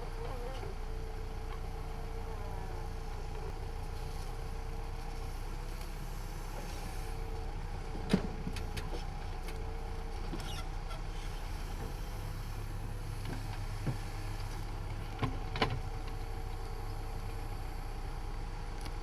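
Heavy diesel engine running steadily, with a constant hum and whine, and a few sharp knocks: one about eight seconds in and two close together later on.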